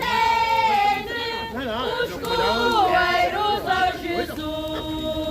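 A group of mixed voices singing a Portuguese Christmas carol together in unison, with some talking mixed in.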